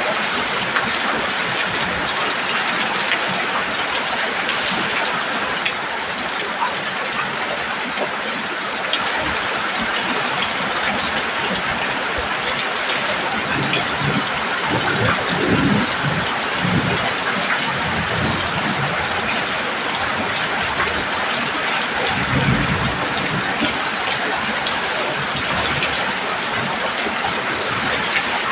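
Heavy rain drumming steadily on a roof. A low rumble swells briefly about halfway through and again near the end.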